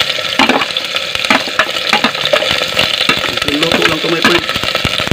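Sliced onions and ginger sizzling in hot oil in a stainless steel pot, a dense, steady crackle, as more ingredients are tipped in and stirred.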